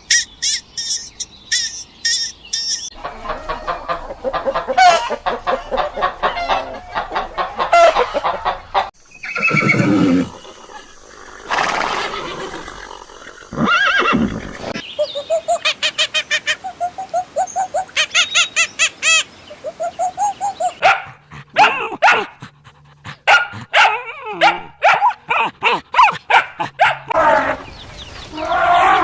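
A run of different farm animal calls, one after another: a quick high chirping series at the start, then rows of short repeated calls and a few long, low calls.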